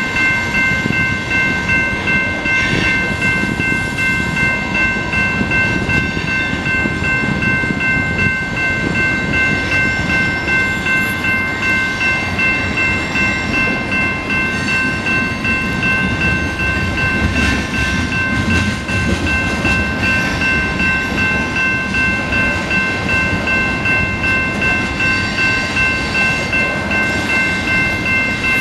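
Freight train of tank cars rolling through a grade crossing, with a steady rumble and clatter of wheels on rail. The crossing's warning bell rings steadily over it the whole time.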